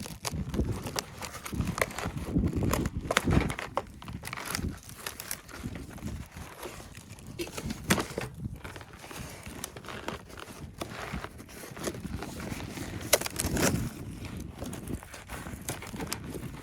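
Irregular crunching and rustling, broken by sharp knocks and dull thuds.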